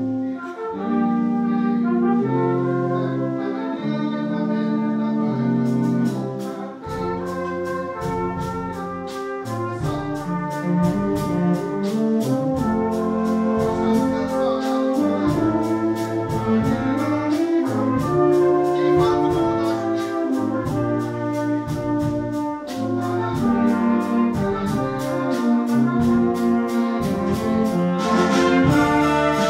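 Brass ensemble playing a piece with sustained, changing chords, and a steady ticking percussion beat joining about six seconds in.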